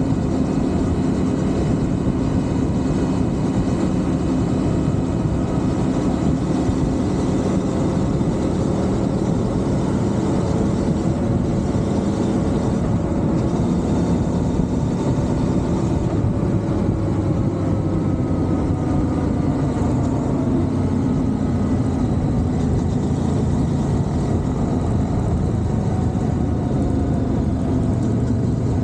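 CFMoto 450MT adventure motorcycle's parallel-twin engine running steadily under way, its pitch sliding gently and easing down a little in the second half.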